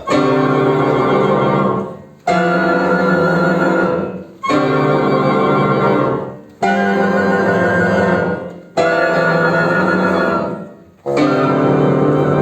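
Chamber ensemble of flute, oboe, bassoon and piano playing a series of loud held chords. Each chord lasts about two seconds, fades, and breaks off briefly before the next one enters, six in all.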